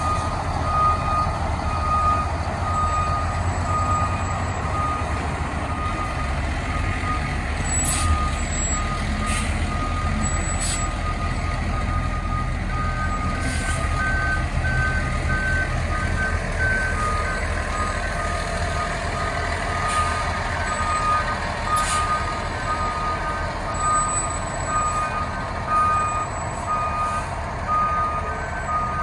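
Fire truck backing up: its reverse alarm beeps steadily over the low running of its diesel engine. A second, higher-pitched beeping joins about halfway through.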